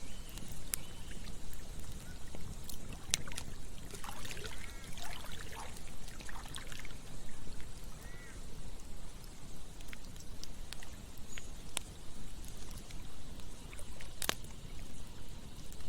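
Campfire crackling, with scattered sharp pops, the loudest about 14 seconds in, over a steady low rush of running water. A series of short bird calls comes in about 4 seconds in, with one more near 8 seconds.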